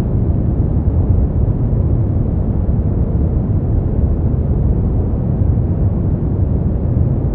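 Synthetic brown noise: a steady, deep rushing hiss with most of its energy in the low end, unchanging throughout.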